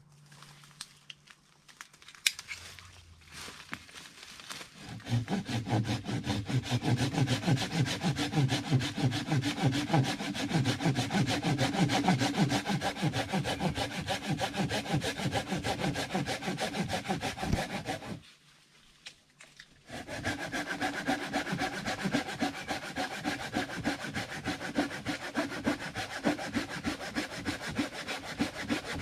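Hand saw cutting through a dead tree limb in rapid back-and-forth strokes. The sawing starts about five seconds in, stops briefly past the middle, then carries on.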